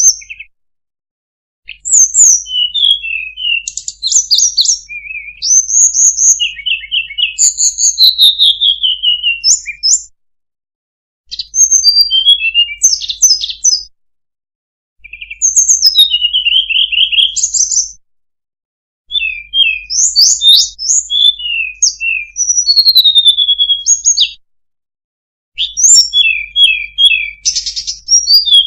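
Recorded song of the small songbird called sulingan or tledekan, played as a bird-trapping lure call. It comes as high, fast phrases of chirps, rapid trills and rising and falling whistles, each phrase lasting a few seconds and cut off by about a second of dead silence, five times.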